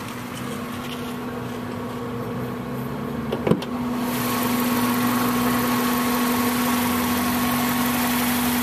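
1998 Honda Accord's four-cylinder VTEC engine idling steadily, with a short knock about three and a half seconds in. The engine sound grows louder and fuller from about four seconds on.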